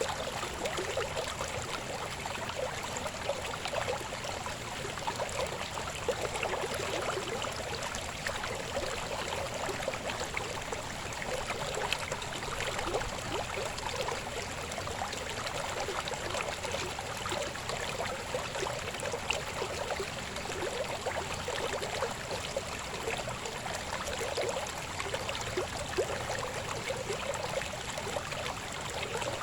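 A shallow river babbling steadily over stones, a constant rush of water with small splashes and gurgles.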